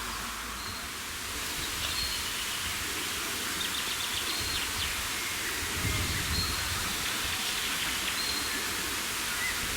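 Outdoor ambience: a steady hiss with a few faint bird chirps scattered through it.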